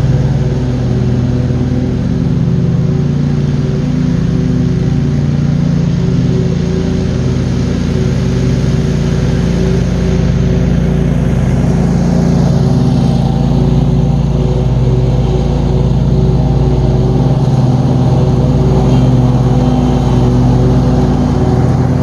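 John Deere QuikTrak 652R stand-on mower's engine running steadily under load while mowing.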